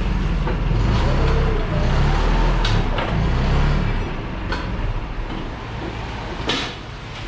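A vehicle engine running steadily, louder for about the first four seconds and then easing off, with a few sharp metallic knocks and clunks over it.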